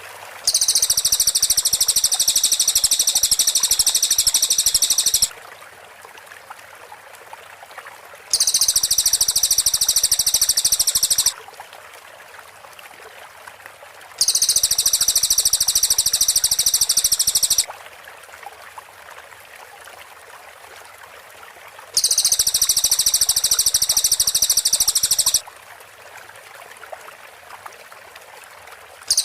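Cililin (pygmy bushtit) giving dense, rapid-fire high trills, the 'tembakan rapat' call, in four bursts of three to five seconds each with short pauses between. A steady hiss like running water sits underneath.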